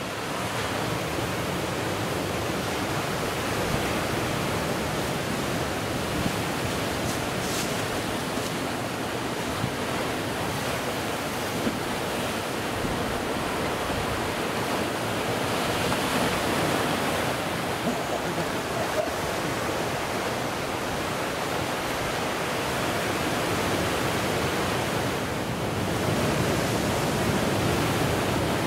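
Ocean surf breaking on a rocky coast: a continuous wash of waves, swelling a little louder about halfway through and again near the end.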